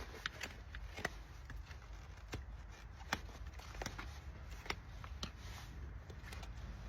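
Hoof-trimming work on a shire horse's hoof: irregular sharp clicks and snips, roughly one a second, with light scraping between them.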